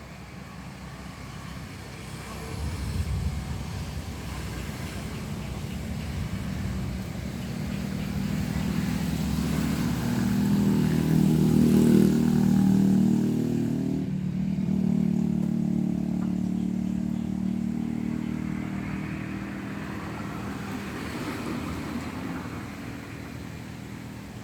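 A motor vehicle's engine running close by, growing louder to a peak about halfway through and then slowly fading, as of a vehicle passing.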